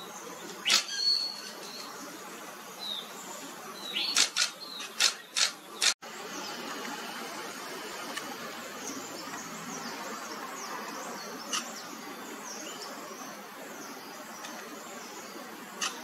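Small birds calling with thin, high, quick chirps, with several sharp clicks in the first few seconds. After a brief cut about six seconds in, a busier chatter of short falling chirps carries on over a steady outdoor background.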